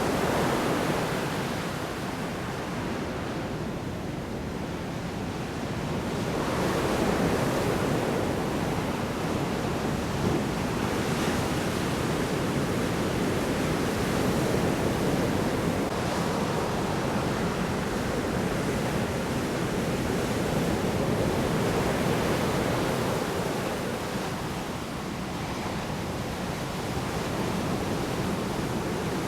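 Large storm waves breaking on a shore: a continuous rush of surf that swells and ebbs every several seconds, with no distinct crashes.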